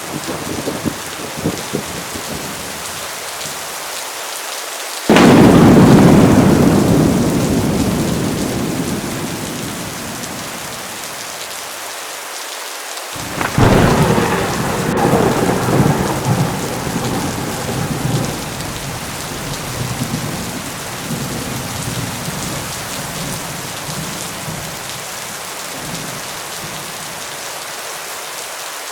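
Thunderstorm: steady heavy rain with two loud thunderclaps, the first about five seconds in and the second about halfway through. Each breaks suddenly and rumbles away over several seconds.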